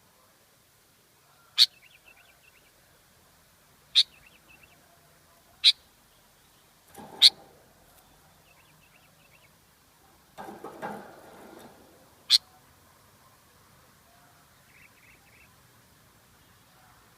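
Sooty-headed bulbul calling: five short, sharp, high notes spaced a few seconds apart, some followed by faint twittering. Two duller, rustling noises of about a second each come in the middle.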